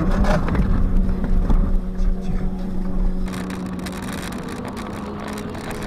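Car engine and road noise picked up by a dashcam: a steady low rumble with a constant engine hum. The rumble drops away and the sound grows quieter about three seconds in.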